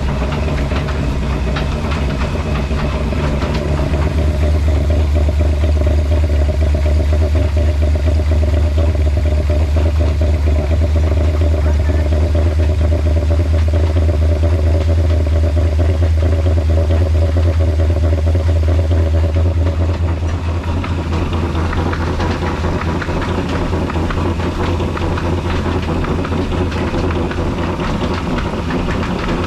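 Old black Ruston-type single-cylinder diesel engine running steadily under load, driving a stone flour mill; it grows a little louder about four seconds in and eases off again about twenty seconds in.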